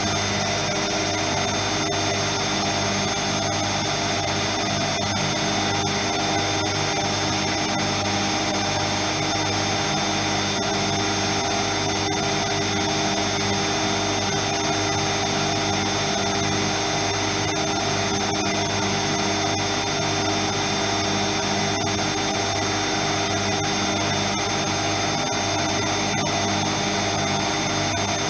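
Privileg 3020 washing machine in a high-speed spin, its drum and motor running steadily at speed with a constant high whine.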